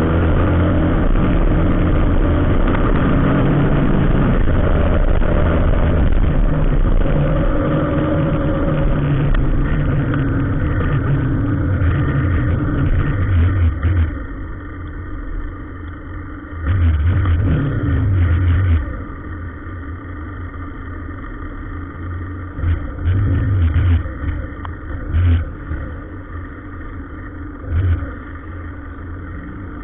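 Motor vehicle engine running in traffic, loud and steady for about the first half, then quieter, with several short surges of louder engine noise in the second half.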